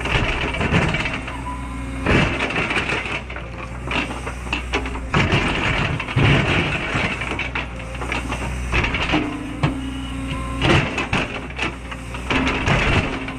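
Cat 314E excavator's diesel engine running steadily under load, with irregular cracks, knocks and scraping as its attachment breaks and drags through rock.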